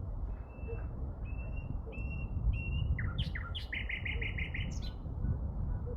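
A songbird singing: four short level whistled notes, then quick sweeping notes and a fast trill of about six notes about halfway through, over a steady low rumble.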